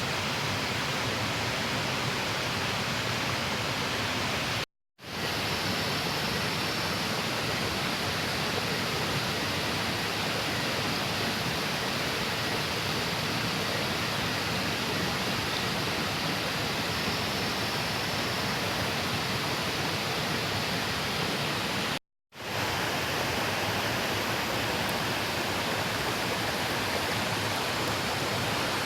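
Steady, even rushing noise, cut off twice for a moment: once about five seconds in and again about two-thirds of the way through.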